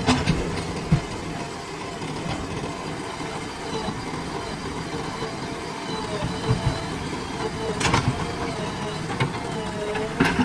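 Diesel engine of a heavy earthmoving machine running steadily, with several sharp metallic knocks: two near the start, one about eight seconds in and one near the end.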